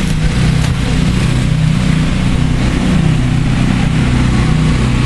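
A combustion engine running steadily at a constant speed, with a low, even hum.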